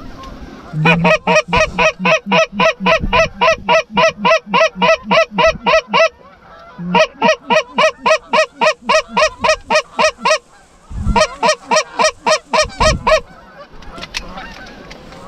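Canada goose honking: three loud runs of rapid, evenly spaced honks, about four a second, with short gaps between the runs.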